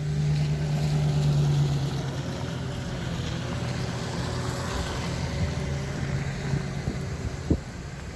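Steady engine and road drone of a car while driving, heard from inside, with a faint wavering tone over a low hum and a single knock near the end.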